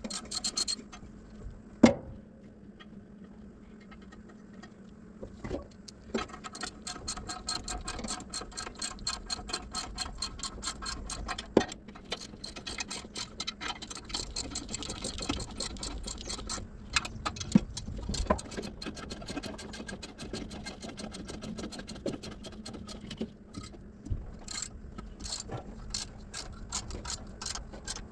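Hand ratchet wrench clicking in long quick runs as exhaust manifold bolts are turned, with a few sharp metal knocks from the tool.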